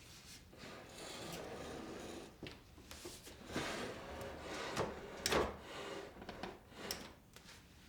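Household objects being handled: uneven rubbing and scraping with a few light knocks, the loudest knock about five seconds in.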